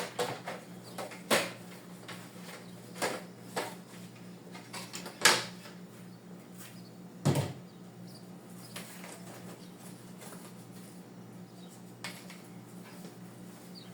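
A handful of scattered knocks and clunks, about five in the first half, the loudest about five seconds in, as things are handled and set down while a refrigerator is cleaned out. A steady low hum runs underneath.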